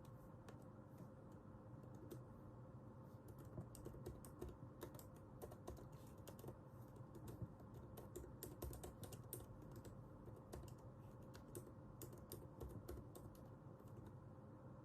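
Faint typing on a computer keyboard: a few scattered keystrokes at first, then quick irregular runs of key clicks from about three seconds in, thinning out near the end.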